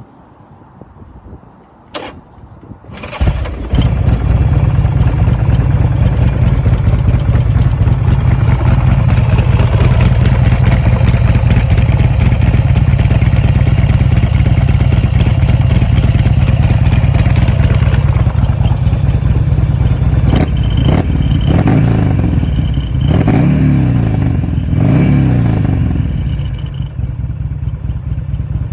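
2006 Buell Lightning XB12Ss's air-cooled V-twin starting: a click about two seconds in, then the engine catches a second later and idles loud and steady. In the last several seconds it is revved a few times.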